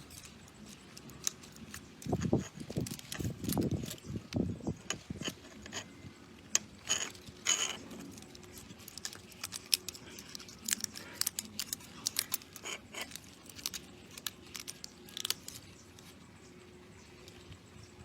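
Metal parts and hand tools clinking, tapping and scraping at an irregular pace. A run of heavier, duller knocks comes between about two and five seconds in.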